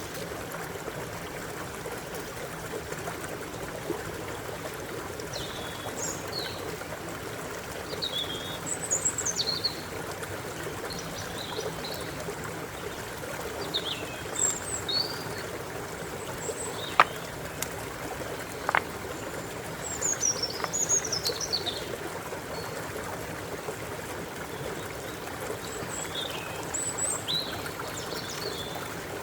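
Stream water running steadily, with birds chirping in short, quick, high calls on and off over it. Two sharp clicks come about two-thirds of the way through.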